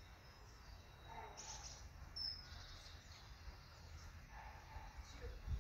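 Faint, scattered chirps and short calls of small birds over a steady low rumble.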